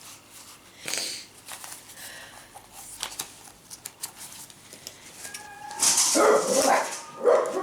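Faint handling clicks, then from about six seconds in, pet dogs barking loudly several times, set off by a van outside.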